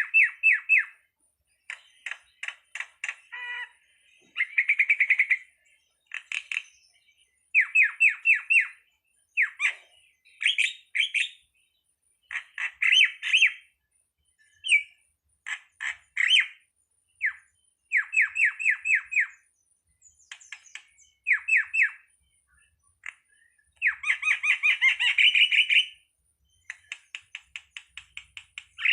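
Jalak (a starling) calling in short phrases of quickly repeated chattering notes, with brief pauses between phrases.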